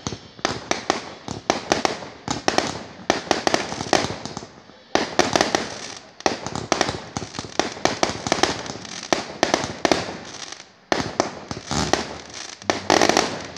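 Aerial fireworks going off in a rapid, continuous barrage of bangs and crackles, several a second, with a short lull about eleven seconds in and a loud flurry near the end.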